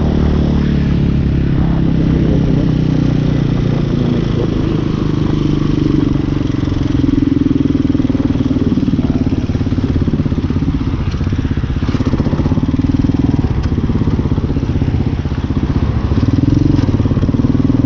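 Hawk 250 dual-sport motorcycle engine running steadily while riding, heard through the GoPro's built-in microphone. The engine gets louder about six seconds in and eases off briefly near the end before picking up again.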